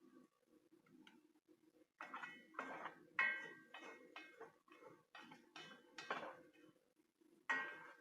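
Spoon knocking and scraping against a bowl as food is stirred: a run of short clinks, some with a brief ring, starting about two seconds in, and another near the end.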